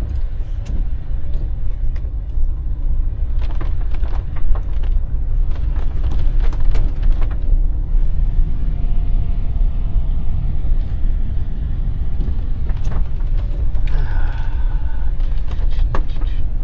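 Steady low rumble of a van driving slowly, heard from inside the cabin, with scattered crackles and knocks for a few seconds about a third of the way in.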